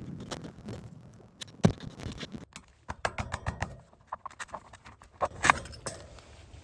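Irregular sharp clicks and knocks from hand work pulling staples and nails out of old rubber conveyor belting, with two louder knocks, one a little under two seconds in and one about five and a half seconds in.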